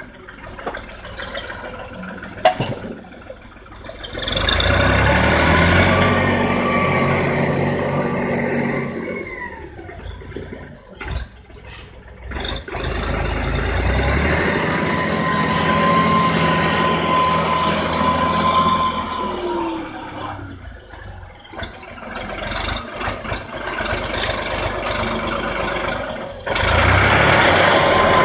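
Erkunt tractor engine running while it pulls a manure spreader, its note rising and falling as it works and passes, with the level jumping up and down abruptly several times.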